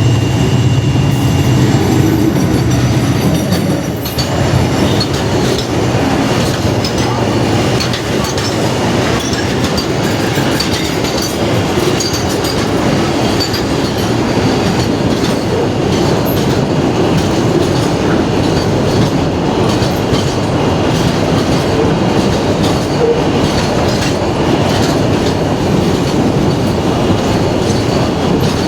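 Container freight train passing close by, its wagon wheels clattering steadily over the rail joints. A low steady drone in the first few seconds fades out after about four seconds.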